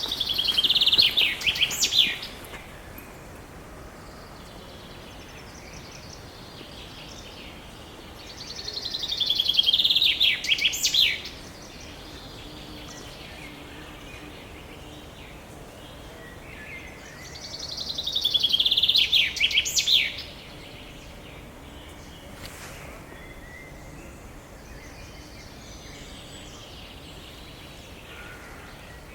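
A songbird singing the same short song three times, about nine seconds apart; each song is a quick run of notes falling in pitch and ending in a brief high flourish.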